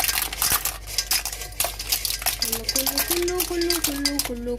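Clam shells rattling and clattering against each other and the pot and colander as they are drained out of their soaking water.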